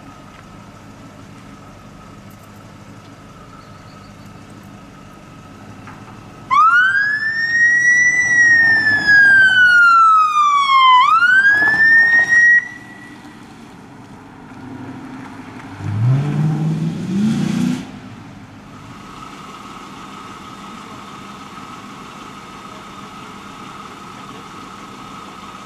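Dodge Charger police car's electronic siren sounding about six seconds in: one rising-then-falling wail, then a rise again that cuts off suddenly. A few seconds later the car's engine revs briefly with a stepped rise in pitch, then settles to a steady idle.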